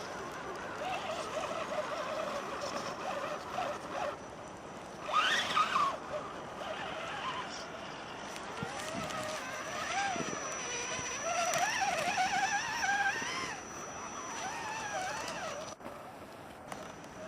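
Small engine revving, its pitch rising and falling, with a louder burst about five seconds in.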